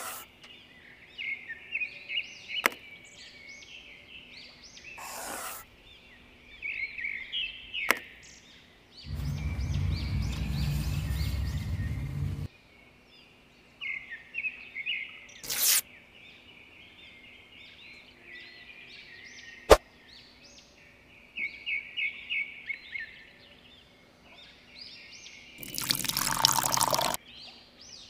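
Small birds chirping in short bursts, with a steady rushing noise like pouring water for about three and a half seconds in the middle. There are a few sharp clicks and a loud noisy burst near the end.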